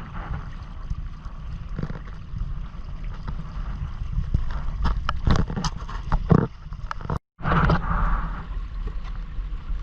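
Wind buffeting the microphone over water sloshing and gurgling against the hull of a Hobie Island sailing kayak, with a cluster of knocks and splashes midway. The sound cuts out for a moment about seven seconds in.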